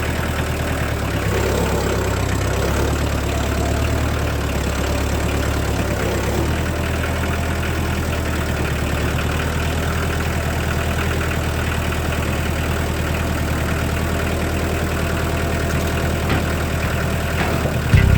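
Kubota compact tractor's diesel engine running steadily at low revs.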